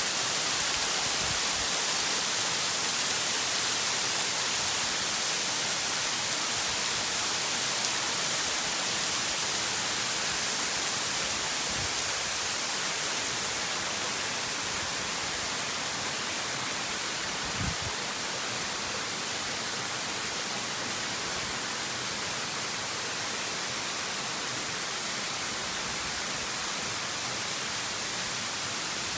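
Waterfall rushing steadily, heard as an even hiss that is strongest in the high range. It eases slightly about halfway through, and a brief low thump comes a little past the middle.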